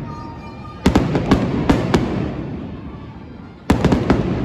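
Aerial fireworks bursting in two volleys, each a quick run of sharp bangs followed by a long echoing rumble. The first volley comes about a second in, the second near the end.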